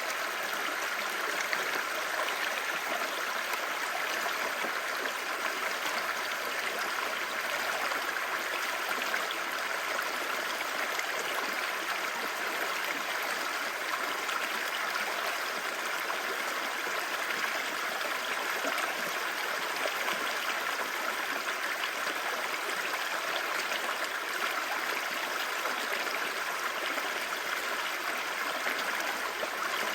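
Clear river babbling steadily, an even rushing of water with no breaks.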